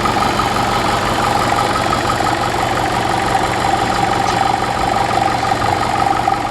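Ferguson TEF tractor's four-cylinder diesel engine running steadily.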